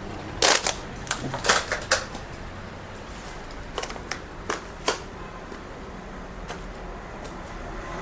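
A run of sharp, irregular clicks and knocks, a quick cluster in the first two seconds and a few more about four to five seconds in, over a steady low hum.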